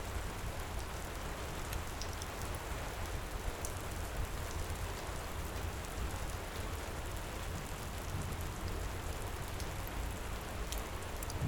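Heavy rain pouring steadily, with a low rumble underneath and scattered faint sharp crackles from a wood fire.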